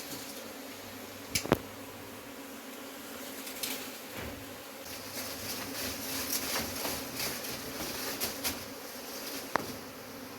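Honeybees buzzing in a steady mass drone around their comb, with a couple of sharp clicks, one about a second and a half in and one near the end.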